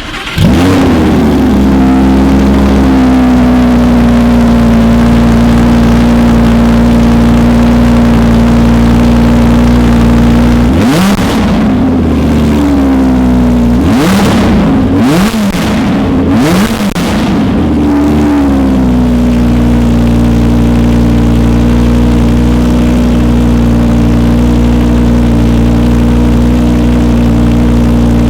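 Lamborghini Huracan Spyder's V10 engine through an aftermarket Capristo exhaust, holding a steady, loud idle. It is revved once about eleven seconds in, then blipped three times in quick succession a few seconds later, each rev rising and falling back before it settles to idle again.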